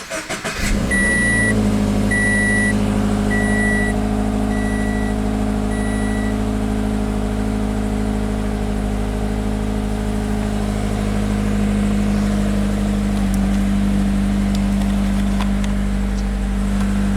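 2014 Scion FR-S's 2.0-litre flat-four boxer engine cranking briefly, catching under a second in, then idling steadily. The car's warning chime beeps five times in the first few seconds after the start.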